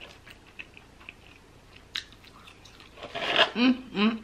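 Close-miked chewing and small wet mouth clicks from someone eating. Near the end comes a louder, brief voiced sound from the eater.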